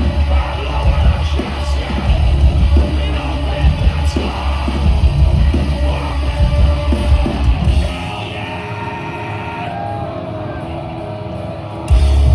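Live metalcore band playing at full volume: distorted guitars, bass and drums with screamed vocals. About eight seconds in, the bass and drums drop out, leaving a quieter passage of ringing guitar, and the full band crashes back in near the end.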